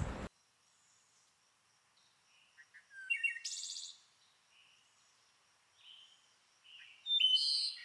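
Birds chirping and singing in short high phrases, one about three seconds in and another near the end, with faint chirps between and near silence otherwise.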